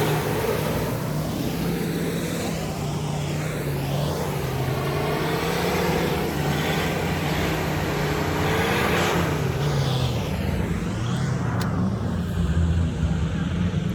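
Off-road vehicle engine running under load, its pitch rising and falling as it is revved.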